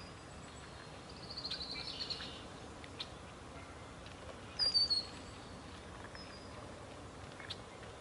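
Birds calling: a quick run of high, falling notes a little over a second in, then a louder, sharp, falling call about halfway through, over a faint steady background hiss.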